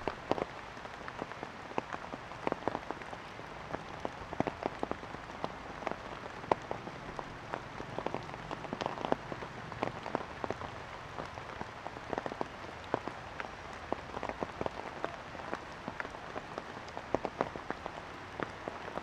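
Rain falling: a steady hiss scattered with many sharp, irregular drop ticks.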